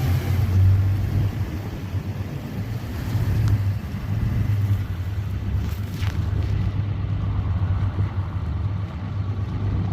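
Chevy pickup's Duramax diesel engine running under load as the truck ploughs through deep snow drifts, a steady low drone, loudest in the first second.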